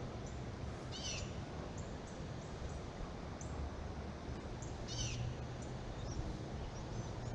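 A bird gives two short, harsh calls about a second in and again about four seconds later, with faint high chips between them, over a steady rush of flowing water from the flooded creek.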